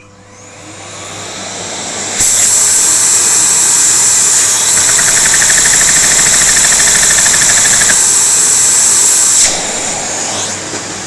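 Vacuum cleaner motor spinning up at 60% power and running with a loud rushing hiss and high whine as it drives a LEGO butterfly vacuum engine. The sound rises over the first two seconds, jumps sharply louder, carries a fast rattle in the middle, then steps down near the end.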